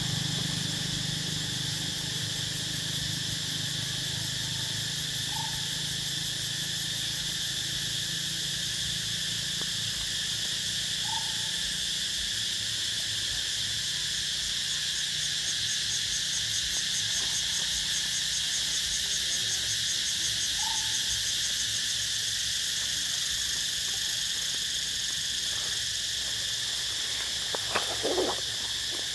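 Steady chorus of insects, a continuous high buzzing and shrilling in several pitches. A short chirp recurs every five or six seconds, and near the end a louder call slides down in pitch.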